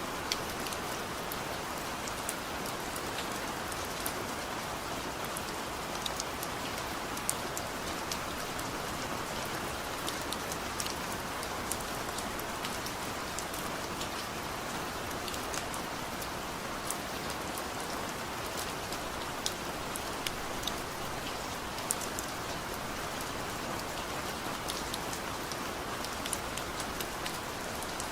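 Steady heavy rain falling, with a constant hiss of rainfall and many sharp drip and drop taps scattered through it.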